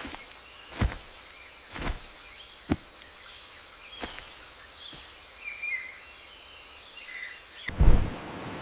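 Jungle ambience: a steady high insect drone with a few short bird chirps and several sharp clicks spaced about a second apart. A loud low rumble comes in near the end.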